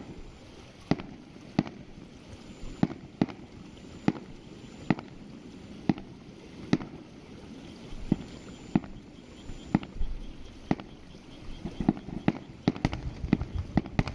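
Aerial fireworks shells bursting: a string of sharp bangs about one a second, coming faster near the end over a low rumble.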